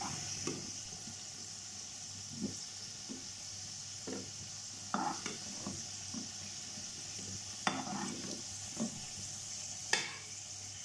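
Potato chunks frying in hot oil, a steady sizzle, while a steel spatula scrapes and clinks against the pan every second or two as the fried pieces are scooped out.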